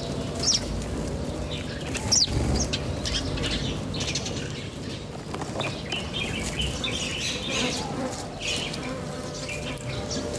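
Birds chirping: scattered short high chirps, two quick falling whistles in the first few seconds, and a busier run of chirps in the middle.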